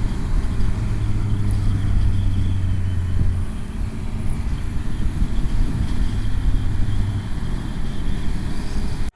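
Motorcycle engine running steadily on the move, with wind rushing over the microphone; the engine note eases off about three and a half seconds in.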